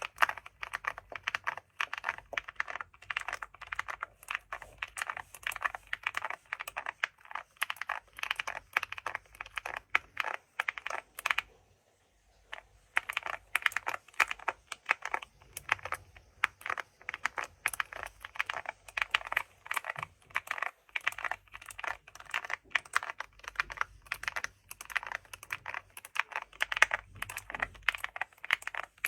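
Computer keyboard being typed on fast and continuously, a rapid run of key clicks, with a short pause about halfway through before the typing resumes.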